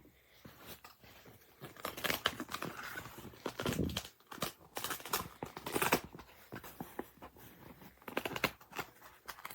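Irregular rustling, scratching and crinkling against the fabric of a soft-sided pet carrier, loudest near the middle.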